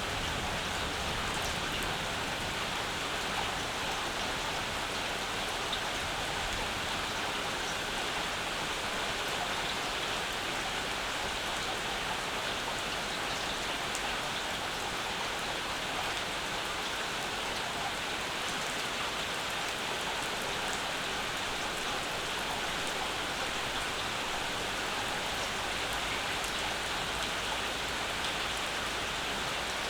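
Steady summer rainfall: an even hiss of rain, with scattered single drops ticking through it.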